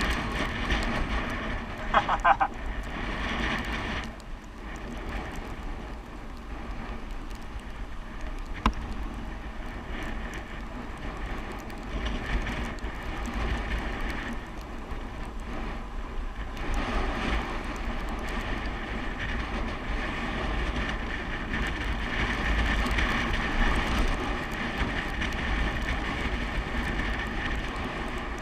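Steady wind rush on the microphone with tyre and road noise from riding a bicycle downhill. About two seconds in there is a brief high-pitched squeal, and near nine seconds a single sharp click.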